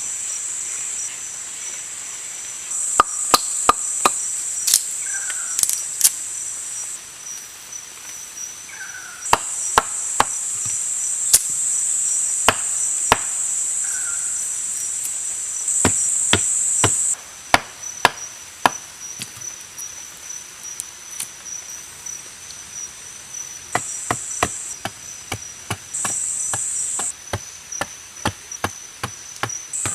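Sharp knocks of a blade chopping into wood, coming in irregular runs of strokes while a wooden bow is shaped by hand. Behind them runs a high, steady insect buzz that stops and starts.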